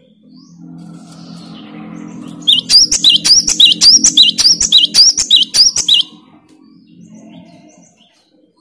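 Cinereous tit (gelatik batu) singing loudly: a fast run of about nine repeated two-note "wu-cit" phrases, each with a sharp rising whistle, lasting about three seconds after some faint chirps, over a steady low hum.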